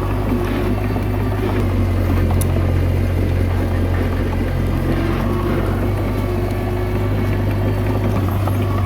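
Komatsu D21A bulldozer's diesel engine running steadily with a low hum, its pitch shifting slightly a couple of times.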